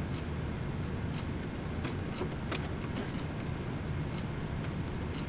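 Steady low hum and background noise of running workshop equipment, with a few faint light clicks of handling, about two to three seconds in.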